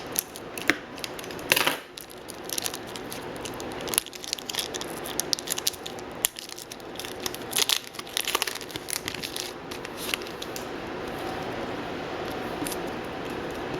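A hockey trading card pack's wrapper being torn open and crinkled, with sharp crackles and clicks coming irregularly through the first ten seconds or so before it settles.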